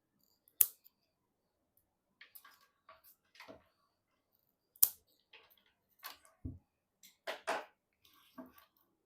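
Hands working on PC parts at close range: two sharp, loud clicks about four seconds apart, with quieter scraping and rustling handling noises between them and a dull low knock about six and a half seconds in.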